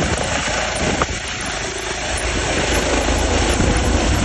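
Air ambulance helicopter running nearby: a steady, heavy rumble with a rushing noise over it.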